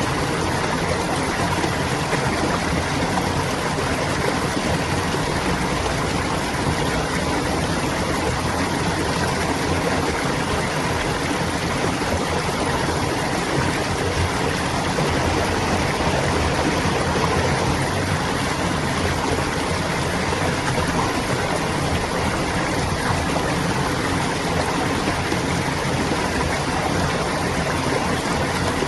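A stream of clear water flowing and babbling steadily, without a break.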